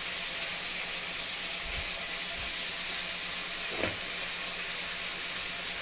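Steady sizzling hiss of tinde (round gourds) cooking down in oil in a pan, with a few soft knocks of a knife cutting pineapple on a wooden board around the middle.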